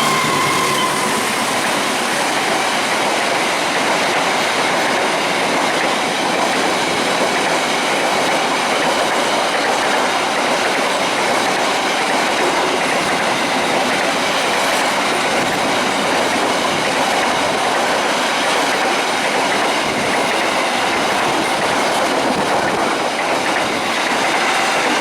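A train running past close by, its steel wheels on the rails making a loud, steady noise throughout.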